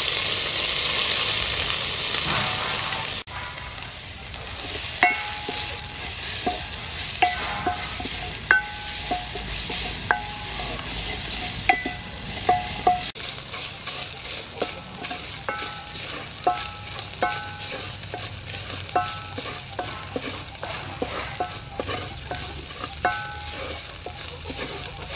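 Pounded spice paste frying in hot soybean oil in an aluminium pot, with a loud sizzle for the first three seconds or so. After that comes a softer steady frying hiss, with a wooden spoon stirring and knocking against the pot; each knock rings briefly.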